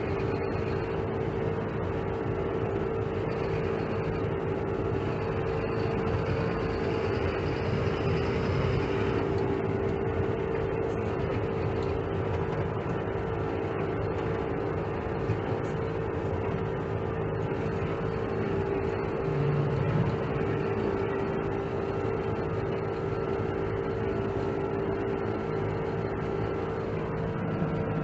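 Dump truck running on a test drive: a steady engine and road drone with a constant hum, no gear changes or revving standing out.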